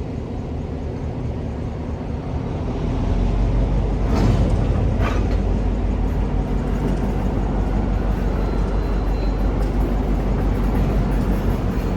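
EMD GP9U diesel locomotive running, its low rumble getting louder about three seconds in. Two brief sharper sounds come about four and five seconds in.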